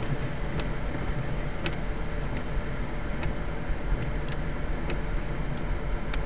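1979 Mercedes-Benz 450SL's 4.5-litre V8 idling steadily, heard from inside the cabin, with a few light, irregular clicks as the windshield wipers sweep the dry glass and come to rest near the end.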